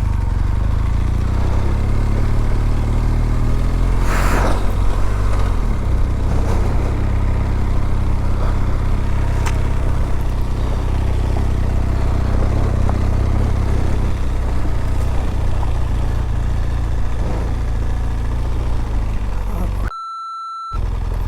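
BMW R1200GS boxer-twin motorcycle engine running steadily, with a deep rumble. Near the end everything else cuts out for under a second and a short high beep sounds.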